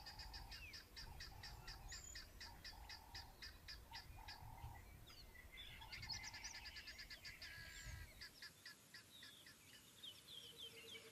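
Faint natural bush ambience: birds chirping, with quick, evenly repeated high chirps and short calls scattered between them.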